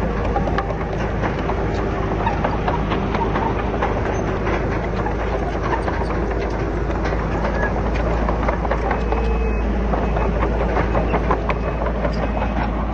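Komatsu D31PX crawler bulldozer running steadily, its diesel engine humming under a dense, irregular clatter of metal tracks and rock.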